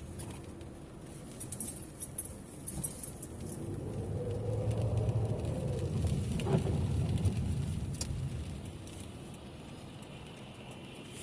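Inside a moving car: a low road-and-engine rumble that swells and eases off again midway, with scattered light clicks and rattles.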